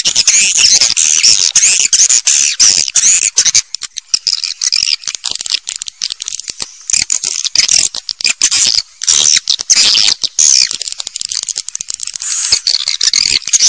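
A flock of swiftlets twittering in a dense, unbroken chorus of rapid high chirps, mixed with fast clicking.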